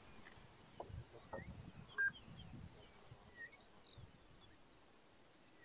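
Faint, scattered short bird chirps, with a few soft knocks in the first half.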